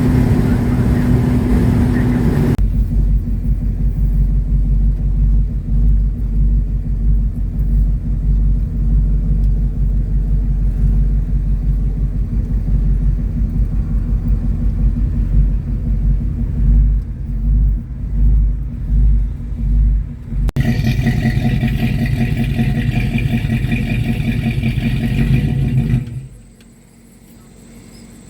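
A car on the road: engine and road noise with wind rumbling on the microphone, the sound changing abruptly twice and dropping much quieter near the end.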